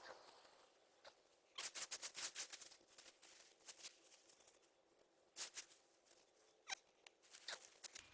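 Scratchy rustling and crackling in irregular clusters, from digging through soil and dry potato plants by hand to harvest the potatoes.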